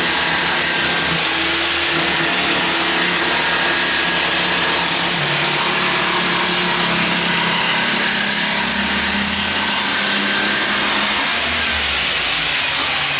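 A motor running steadily and loudly, its pitch shifting slightly now and then.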